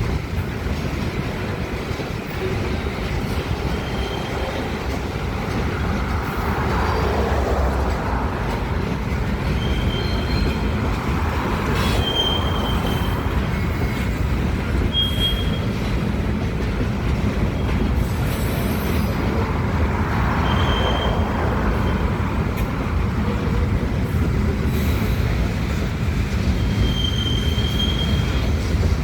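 Loaded gravel freight train rolling steadily past with a continuous low rumble. Short high wheel squeals come and go several times, with a few sharp metallic clanks.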